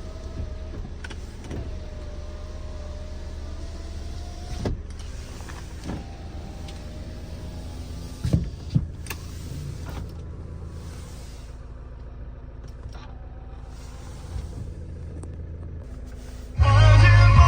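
A small electric motor in a 2011 Kia Sportage, the kind that drives a power window or the sliding panoramic roof, whines steadily for about four seconds and stops with a clunk. Several clicks and shorter, fainter motor runs follow over a steady low hum. Loud music starts about a second before the end.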